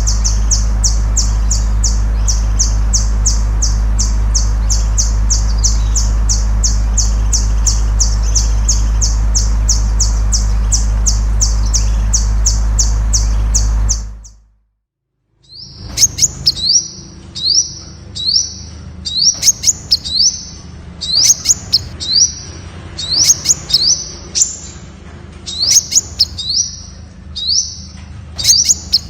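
Temminck's sunbird calling: a fast, even run of high, thin notes, about three or four a second, over a low hum, breaking off about 14 seconds in. After a brief pause the bird resumes with high chirps given in quick clusters.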